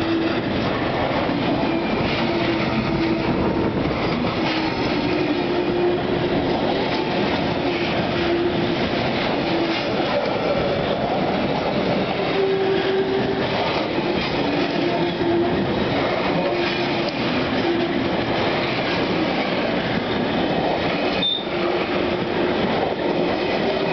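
Freight train of empty container flat wagons rolling past close by: a steady rumble and clatter of wheels on the rails, with short wheel squeals that come and go. A single sharp knock about 21 seconds in.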